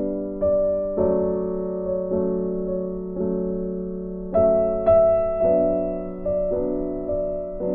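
Slow, gentle piano music, notes struck about once a second and left to ring and fade.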